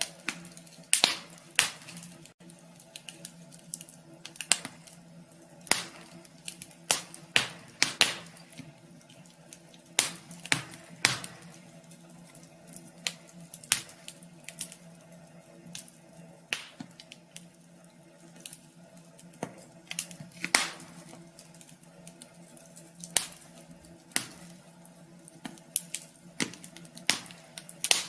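Wood fire crackling in a wood stove: irregular sharp pops and snaps, some close together and some a few seconds apart, over a steady low hum.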